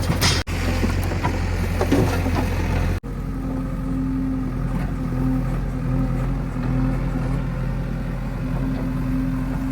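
Diesel engine of heavy earthmoving machinery running steadily, with sharp knocks and clatter over the first three seconds. The sound drops out for an instant twice, about half a second and three seconds in.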